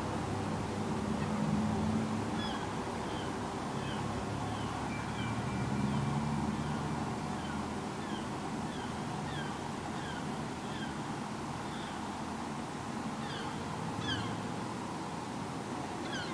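A bird calling over and over in short, falling chirps, about two a second, with a louder run near the end. A low rumble runs beneath and swells twice early on.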